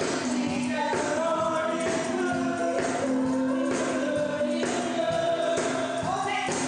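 Gospel choir singing with a tambourine shaking along.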